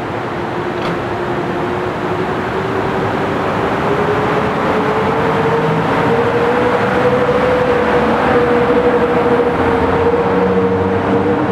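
EP09 electric locomotive and its passenger coaches passing close along the platform: a rolling rumble of wheels on rails that builds slowly in loudness, with a steady whine that rises a little in pitch a few seconds in and then holds.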